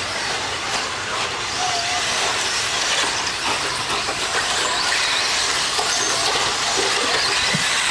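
A pack of electric 1/10-scale RC stadium trucks racing: a continuous mix of high-pitched motor whine and tyre and chassis noise on the dirt track, with faint rising and falling whines near the end.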